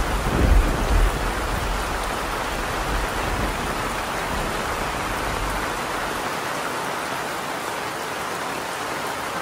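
Heavy thunderstorm rain pouring steadily, with a low rumble of thunder that dies away about six seconds in.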